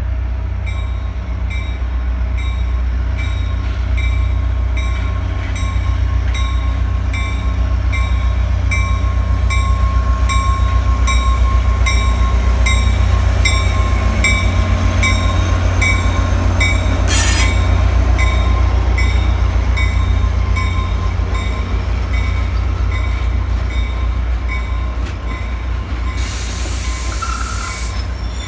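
Caltrain diesel locomotive and its bilevel gallery cars passing close by. The engine's low rumble builds to its loudest around the middle, over a steady wheel squeal and a bell ringing steadily, a little under twice a second. A brief hiss comes a little past halfway.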